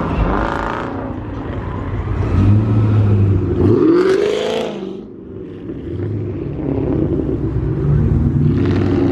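Car engine running, revved once about four seconds in, its pitch climbing and then falling away before it settles back to a steady run.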